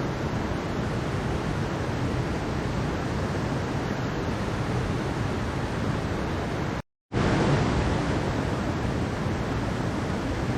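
Steady rushing of water in a mountain stream. The sound cuts out completely for a split second about two-thirds of the way through, then resumes unchanged.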